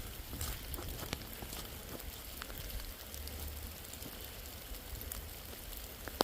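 Steady rain falling, a soft hiss with scattered single drops ticking close by, over a low rumble.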